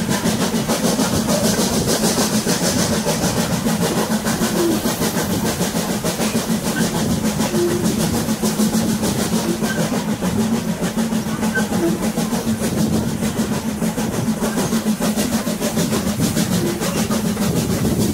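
A steam-hauled passenger train running along the track, heard from on board the coach: a steady rolling rumble with a constant fine rattle, holding even throughout.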